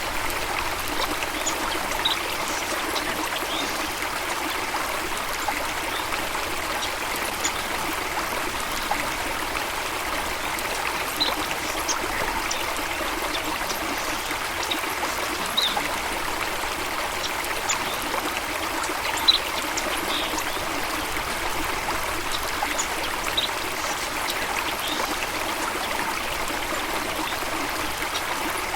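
A stream of water runs steadily with an even rushing and trickling sound. Short, high-pitched sounds are scattered through it, the sharpest about two-thirds of the way in.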